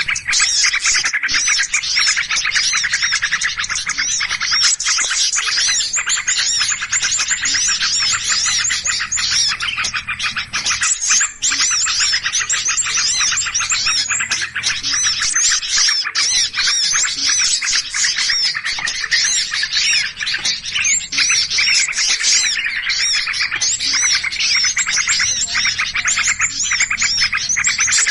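Dense chorus of many small birds chirping and chattering at once, a continuous noisy mass of overlapping calls: a bird-catchers' lure recording of agitated ('ribut') birds, meant to draw other birds in.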